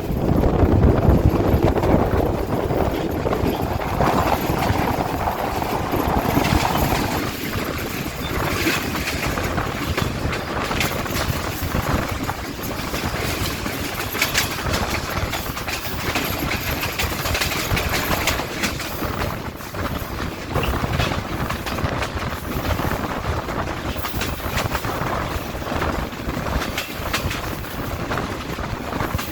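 Intercity passenger train running on the rails: a steady rumble with many rapid clicks and knocks from the wheels over the track, a little louder in the first few seconds.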